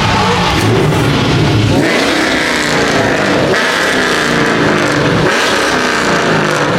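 Car engines revving hard, their pitch climbing and dropping again and again, with a high sustained note joining in about two seconds in.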